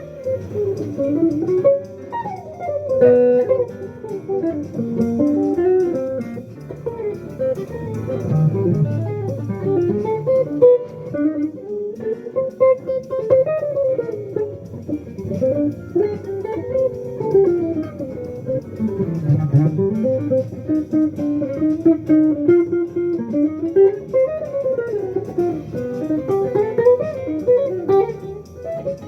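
Jazz guitar playing a fast, continuous line of single notes that runs up and down, with lower bass notes underneath.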